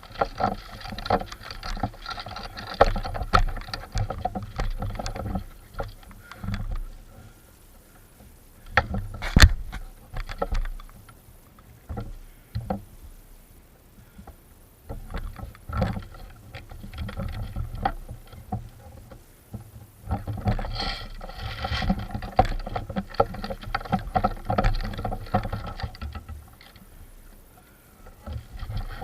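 Rustling and scuffing of a player moving through forest undergrowth, with camera handling noise and scattered sharp clicks and knocks; one loud knock a little after nine seconds.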